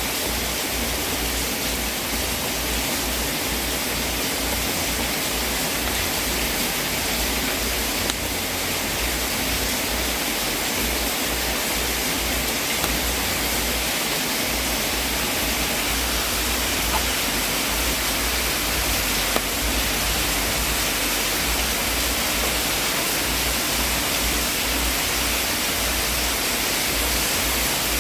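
Wood fire burning in a fireplace: a steady hiss with a few small crackling pops scattered through it.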